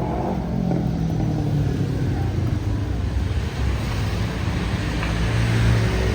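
Road traffic: motor vehicles running and passing, with one pass growing louder toward the end.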